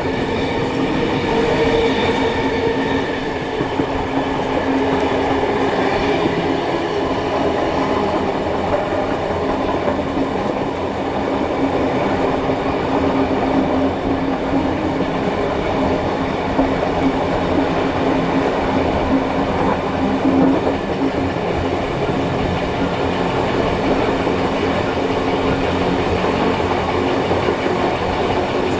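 A steam-hauled passenger train running, heard from on board: a steady rumble of wheels on the rails with a constant low hum. A set of higher ringing tones is strongest over the first few seconds and then fades.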